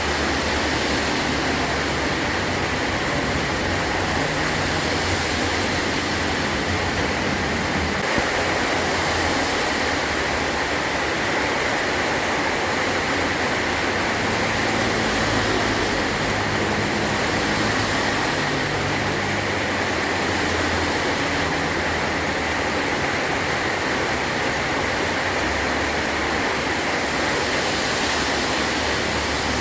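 Heavy rain drumming steadily on a metal roof, an even, unbroken wash of noise.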